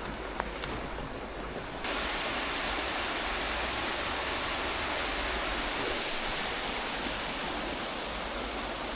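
Steady rush of creek water pouring over partly iced-up falls, getting louder and brighter about two seconds in.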